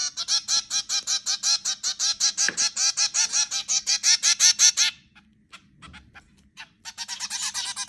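Zebra finches calling: a rapid run of nasal, honking beeps, several a second, that breaks off about five seconds in, leaving a few faint ticks, then starts again more softly near the end.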